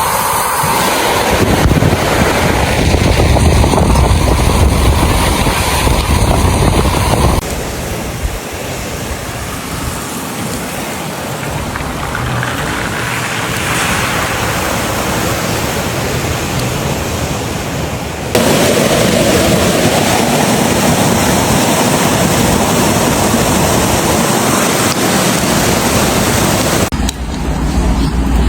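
Storm noise: a steady rushing roar of wind and water on the microphone. It changes abruptly about seven and eighteen seconds in, quieter in the middle stretch.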